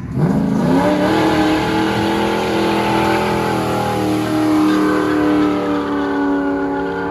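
Car engine revving up sharply in under a second, then held at high, steady revs for several seconds, easing off slightly near the end.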